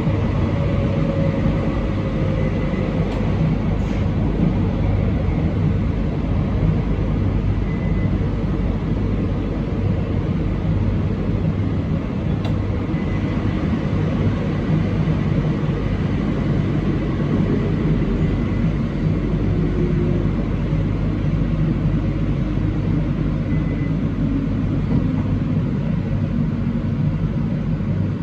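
Train running along the track, heard from the cab: a steady rumble of wheels and running gear, with faint humming tones that slowly shift in pitch.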